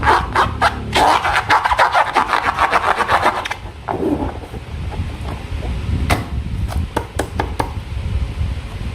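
Slime being squished and worked by hand, giving a dense run of crackling clicks for about two and a half seconds and then scattered single clicks.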